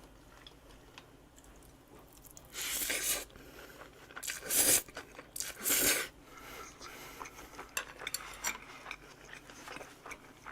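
Crunching bites and chewing of a bossam wrap of boiled pork, kimchi and raw vegetables: three loud crunches between about two and six seconds in, then softer chewing clicks.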